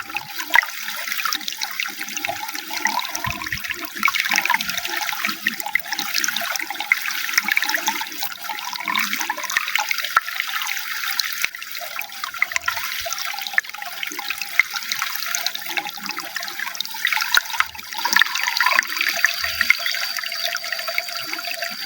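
Water running and splashing continuously, a busy gurgling trickle full of small splashes. A faint, steady high tone joins near the end.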